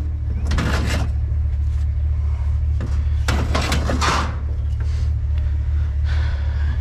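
Truck engine and road noise making a steady low drone, with clattering rattles about half a second in and again around three to four seconds in.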